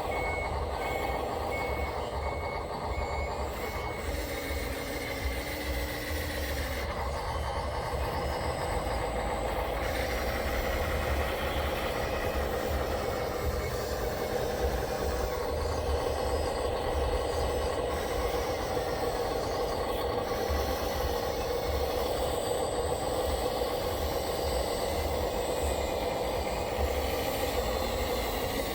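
Radio-controlled construction machines running: a steady mechanical drone with electric motor whines that shift in pitch, over a low rumble.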